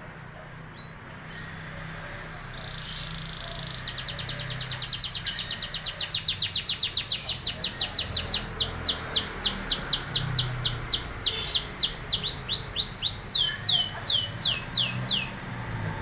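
Canary singing: a few soft chirps, then from about four seconds in a long, fast trill of rapidly repeated high notes that slows into a series of downward-gliding whistles, stopping shortly before the end.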